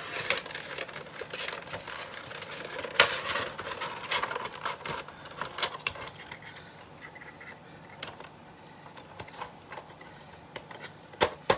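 A Funko Pop vinyl figure being packed back into its plastic insert and cardboard window box: a run of plastic crinkles, scrapes and clicks that thins out after about six seconds, with two sharp clicks near the end.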